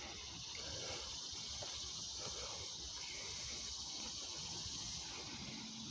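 Steady chorus of insects, an even high-pitched hiss without a break.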